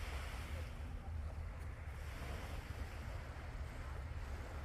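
Sea waves washing in on a beach, swelling twice, with wind rumbling on the microphone underneath.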